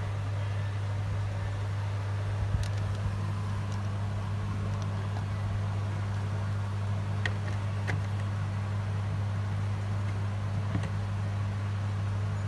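A steady low electrical hum, with a few faint clicks scattered through it.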